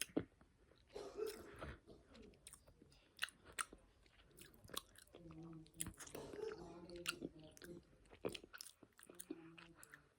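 Close-up chewing of a soft gummy candy: wet, sticky mouth clicks and smacks scattered irregularly.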